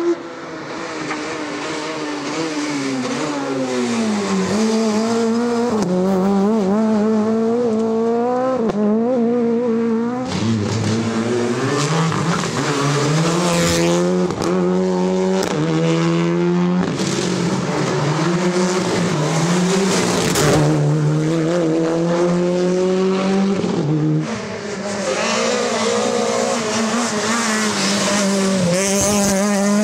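Rally cars at full effort on a stage: engines revving hard, their pitch dropping on braking and downshifts and climbing again under acceleration, with some tyre squeal. The sound jumps abruptly twice, about ten seconds in and again near the end, as one car gives way to another.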